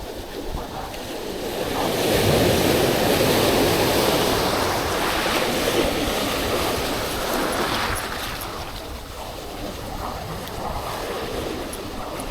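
Sea waves breaking on the shore, the surf swelling about two seconds in and easing off after about eight seconds, with strong wind buffeting the microphone.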